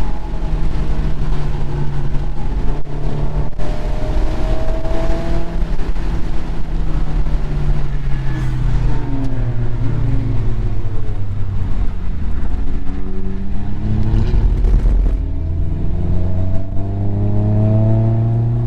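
Mazda MX-5 engine heard from inside the open-topped cockpit on track, accelerating with rising revs, easing off around the middle, then pulling hard up through the revs again near the end. Wind and road noise rush throughout.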